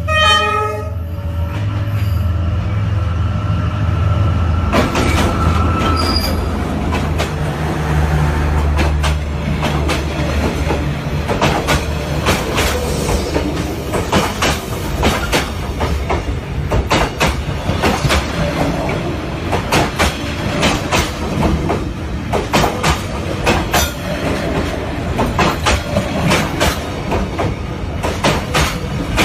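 Train running on the rails: the tail of a horn blast fades out in the first second, and a thin wheel squeal holds until about six seconds in. After that comes a steady low rumble with repeated clickety-clack of the wheels over the rail joints.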